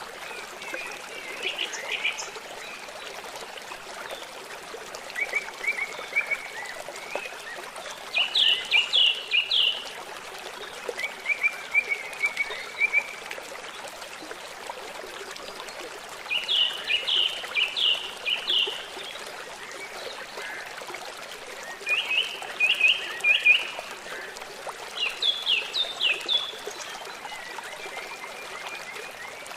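Steady running water of a river, with songbirds singing over it in short phrases of quick repeated chirps every few seconds.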